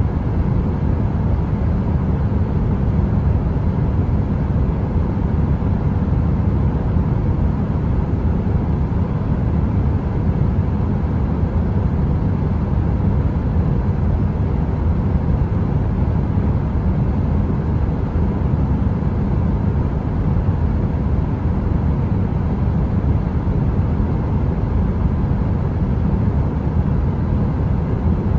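Steady, deep heater noise, like brown noise, with a faint steady hum on top.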